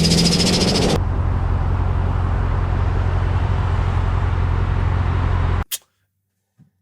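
Turbocharged Dodge engine running: a loud pitched whine from the turbo over the engine for about the first second, then a steady low rumble. The sound cuts off abruptly about five and a half seconds in, followed by one sharp click and near silence.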